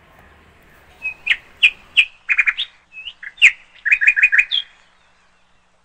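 A bird chirping: a string of loud, short chirps starting about a second in, some in quick runs of three or four, ending near the end.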